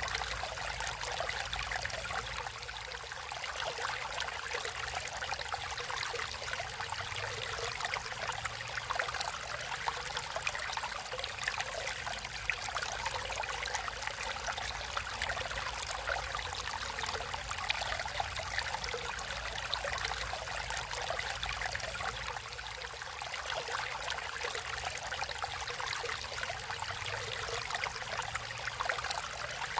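Water flowing and trickling in a stream, a steady splashing babble.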